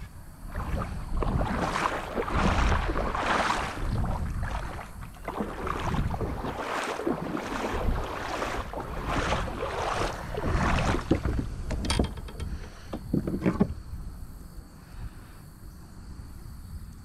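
Kayak paddle strokes splashing in the river, one every second or so, which die away near the end, over a low wind rumble on the microphone.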